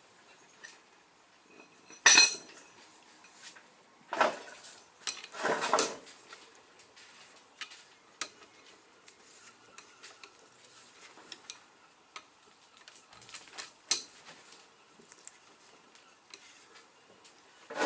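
Metal hand tools clinking and clanking on an engine as the cylinder head nuts of a Mini's 1293 A-series engine are nipped up by hand, in irregular knocks and rattles, the loudest clank about two seconds in.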